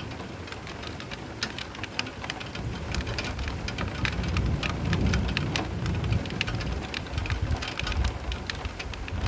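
Steady rain with close raindrop splats, and a low rumble of distant thunder that swells from about three seconds in and fades near the end.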